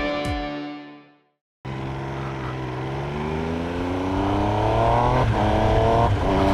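Electronic intro music fades out, and after a brief silence the Triumph Trident 800's 798cc three-cylinder engine pulls hard, its pitch climbing steadily and dropping at two quick upshifts near the end.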